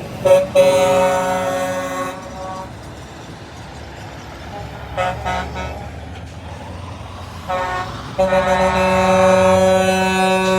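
Truck horns honking: a few short toots, then a lull with low engine rumble and brief honks, and a long held horn blast starting about eight seconds in.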